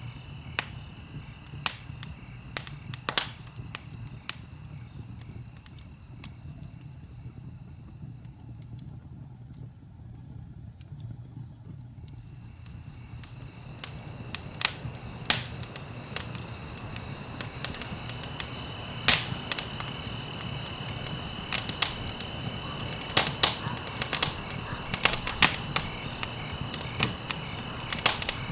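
Wood fire burning in a fireplace: irregular sharp crackles and pops over a low steady rumble, the crackling growing busier in the second half. A faint steady high tone runs in the background and drops out for a few seconds in the middle.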